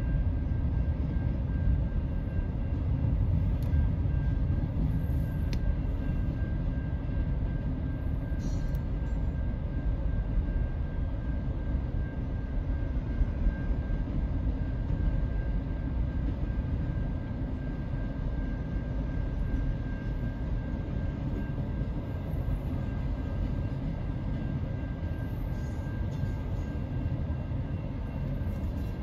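Double-stack intermodal freight train rolling past: a steady low rumble of its well cars' wheels on the rails, with a faint steady high tone over it.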